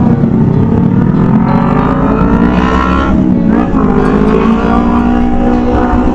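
Motorcycle engine accelerating hard away from a green light, its pitch climbing, dropping briefly about three seconds in at a gear change, then climbing again.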